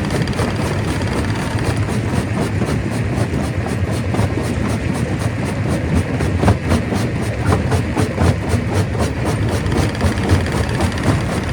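Stone crusher running under load: a steady, heavy machine noise with many quick knocks and clatter of rock being broken.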